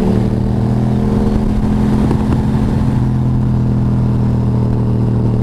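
Motorcycle engine running steadily at an even cruising speed, its pitch holding nearly constant.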